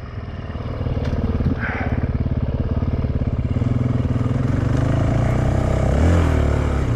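Honda CRF450X's single-cylinder four-stroke engine running under way at a steady pitch, then the revs drop and climb again near the end as the throttle is worked.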